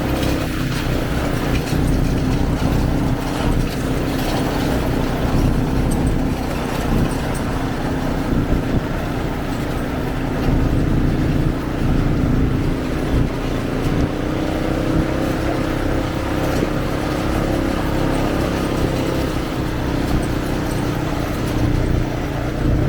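ATV engine running steadily while riding along, its drone holding a fairly constant pitch that rises a little about halfway through, over a rumble of wind and terrain.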